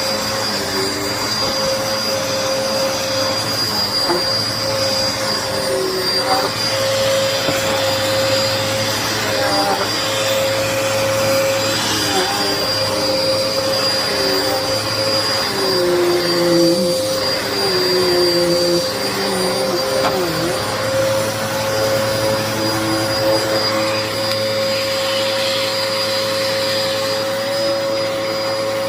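Hoover vacuum cleaner running with its brushroll, a steady motor whine over the rush of air, the pitch of a lower tone wavering for a few seconds midway. The owner says the vacuum is clogged.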